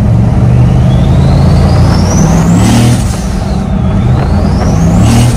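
Turbocharged LS V8 in a 1971 Chevrolet C30 truck accelerating hard, with the turbo's whine climbing steeply as the revs rise. The whine drops at a gear change about three seconds in, then climbs again.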